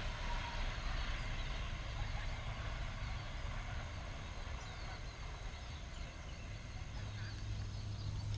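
Low rumble of a departing diesel locomotive-hauled train slowly fading into the distance, with faint bird calls over it. A steady low hum comes in near the end.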